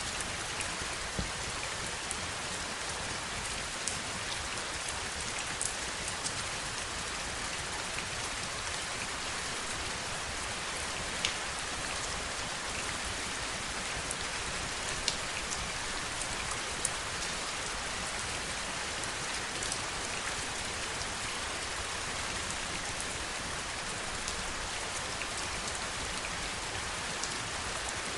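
Heavy, steady rainfall, a dense even hiss with scattered sharper drop hits standing out now and then.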